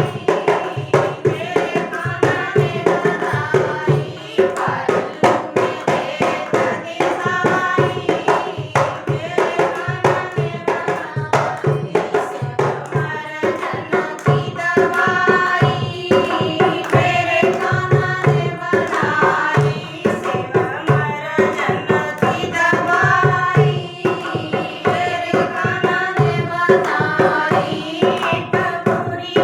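Hindi devotional bhajan: a woman singing over a steady hand-drum beat.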